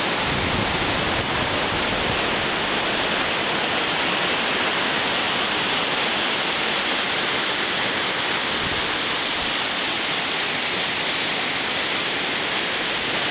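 A waterfall rushing steadily, an unbroken roar of falling water.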